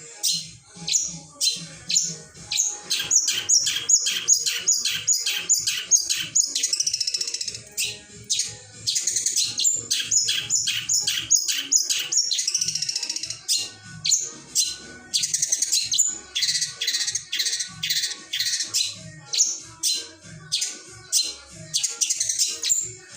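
Long-tailed shrike (cendet) singing a varied song packed with imitations of other birds' calls: runs of sharp, high repeated notes at about four a second alternating with fast chattering trills.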